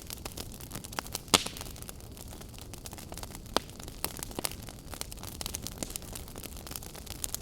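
Log fire crackling: a steady hiss of burning wood with scattered sharp pops and snaps, one loud pop about a second in.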